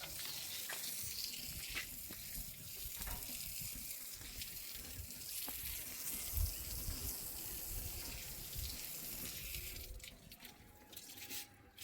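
Water running steadily with a hiss, stopping about ten seconds in.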